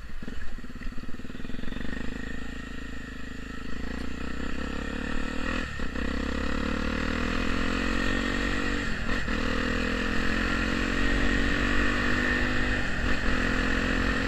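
Honda Tornado 250 single-cylinder four-stroke engine with an aftermarket Protork exhaust, pulling under acceleration while riding. The engine note climbs steadily and breaks briefly three times as the rider shifts up, then climbs again, getting gradually louder.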